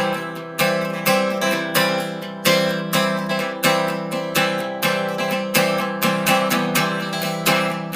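Acoustic guitar strumming chords in a steady rhythm, with no singing: an instrumental break between verses of a song.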